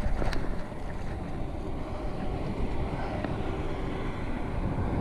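Wind buffeting an action camera's microphone while riding a bicycle, a steady low rumble with one sharp click about a third of a second in.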